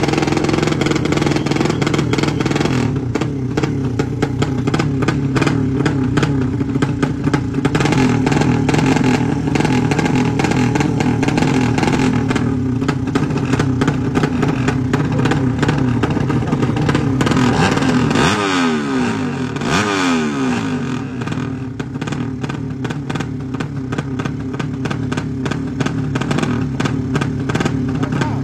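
Racing motorcycles with horizontal-cylinder ('sleep engine') engines running loud and revving steadily, with a crackly exhaust note. About two-thirds of the way through, the pitch sweeps briefly.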